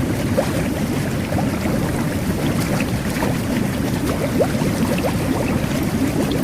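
Jet bath (whirlpool tub) running: a steady churn of bubbling, agitated water, with many small bubble pops and gurgles scattered through it.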